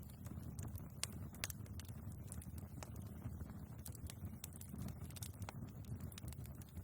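Wood fire burning in a fireplace: a steady low rumble of flames with frequent small crackles and a few sharper pops of the logs.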